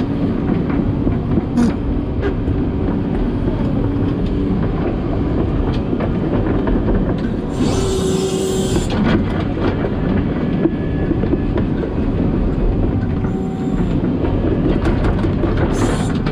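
Steady loud rumble of a vehicle in motion, with a burst of hiss about eight seconds in that lasts about a second, and a shorter one near the end.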